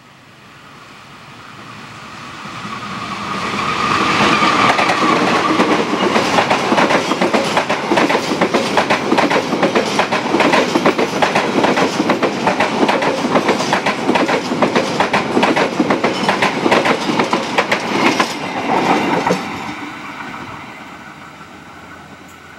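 A CC 206 diesel-electric locomotive and its stainless-steel passenger coaches pass at speed. The rumble builds as the train approaches, then comes a long, rapid clickety-clack of wheels over the rail joints. About nineteen seconds in, the sound drops away as the last coach passes and the train recedes.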